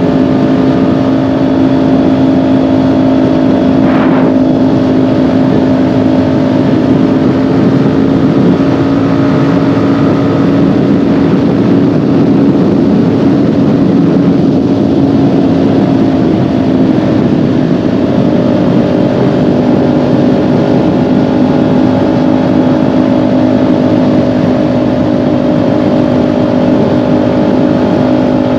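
Kawasaki Ninja 400 parallel-twin engine running steadily at cruise, with wind and road noise. The engine note eases a little about halfway through, then holds steady again.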